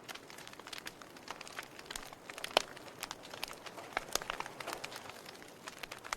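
Wood fire burning in a fireplace, crackling with irregular sharp pops and snaps over a faint hiss; the loudest pop comes about two and a half seconds in.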